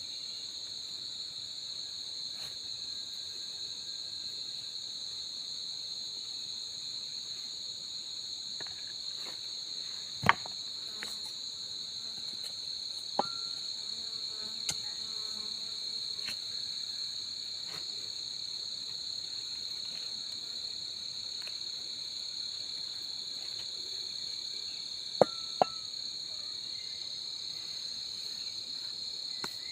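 A steady, high-pitched chorus of night insects trilling without a break. A few sharp clicks sound over it, the loudest about ten seconds in and a close pair near the end.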